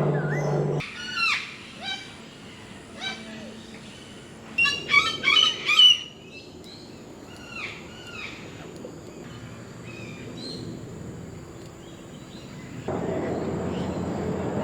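Birds calling: short chirps and whistled notes, with a loud flurry of rapid calls about five seconds in. A steady low background sound cuts out about a second in and comes back near the end.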